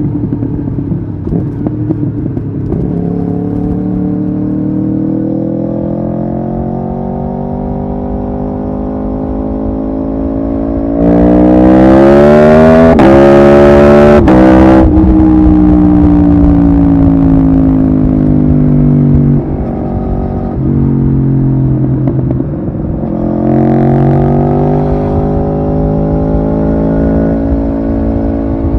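Aprilia Tuono V4R's V4 engine under way, climbing in pitch as it accelerates. About halfway through it pulls hardest and loudest, with two quick upshifts, then winds down as the throttle closes, and climbs again near the end.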